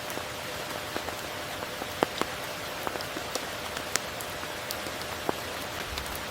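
Steady rainfall hissing, with scattered single drops landing as sharp ticks, the loudest about two and four seconds in.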